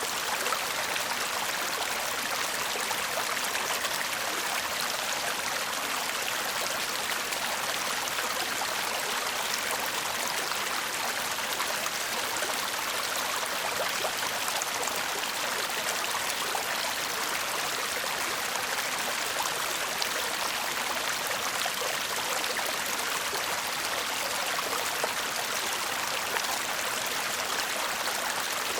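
Shallow stream murmuring and babbling over stones, a steady rush of water with fine splashing.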